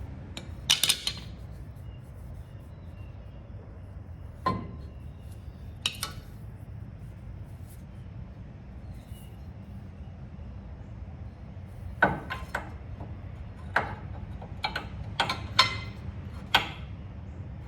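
Metal tools clinking and tapping against steel parts during truck suspension work: two clinks about a second in, single ones a few seconds later, then a quick run of clinks in the last five seconds, over a steady low hum.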